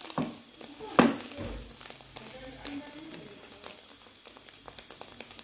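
Minced chicken and chopped vegetables frying in a wok, a faint sizzle with scattered crackles, and a wooden spoon stirring through it. One sharp knock about a second in is the loudest sound.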